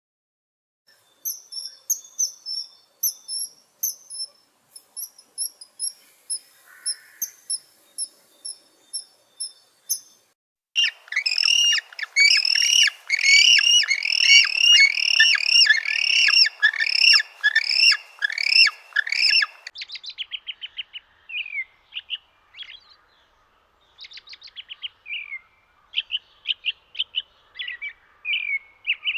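Birds chirping in three stretches. First come thin, high-pitched chirps repeated in a steady series. About a third of the way in, a denser and louder run of rapid chirps begins, and it gives way to sparser, varied chirps and short trills.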